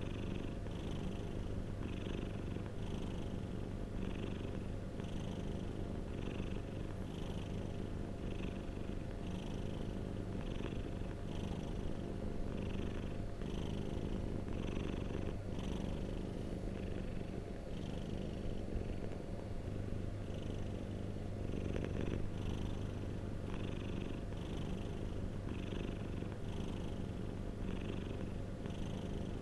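Domestic cat purring close to the microphone: a steady low rumble that swells and eases with its breathing, about every two-thirds of a second.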